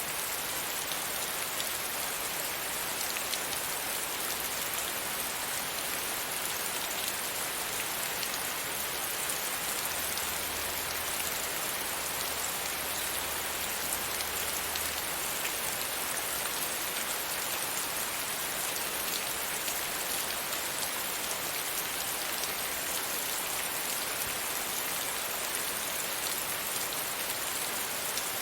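Steady rain pattering against a window pane, an even hiss of many fine drop ticks.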